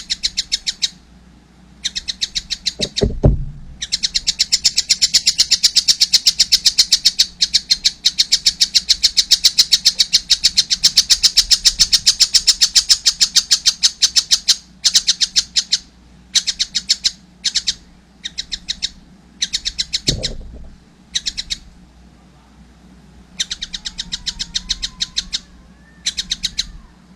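A young tengkek buto kingfisher calling in rapid chattering runs of sharp, high chips, one long unbroken run of about ten seconds early on and shorter bursts later. A few dull low thumps come in between.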